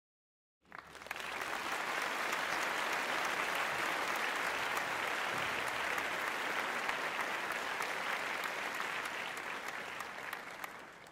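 Crowd applause: many people clapping, swelling up about a second in, holding steady, then fading away near the end.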